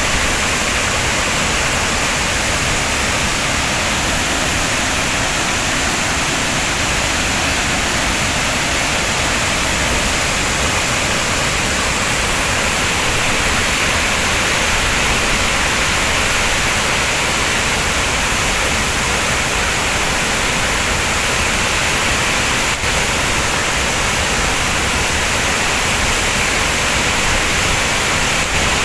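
Floodwater pouring over a swollen waterfall: a loud, steady rushing roar with no let-up.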